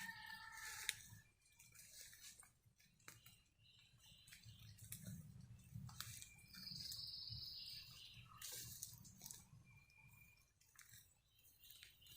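Faint footsteps crunching and snapping on wet leaves and twigs of a forest floor, with a bird's short high call repeating every few seconds and a high, even buzz lasting about a second past the middle.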